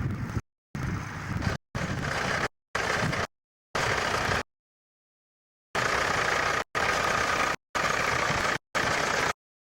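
Tractor engine running, the sound chopped into short pieces by repeated complete dropouts, with a longer silent gap near the middle.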